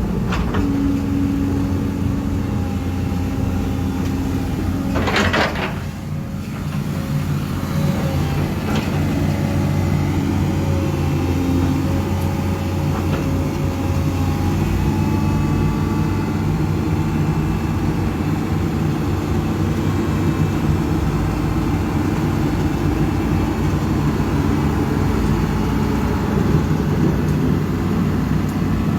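Diesel engine of heavy earthmoving machinery running steadily, with a short hiss about five seconds in.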